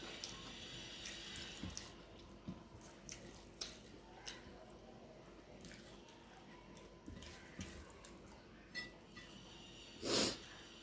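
Wet eating sounds of people chewing food with their mouths, with scattered short clicks and smacks and one louder, brief noisy sound near the end.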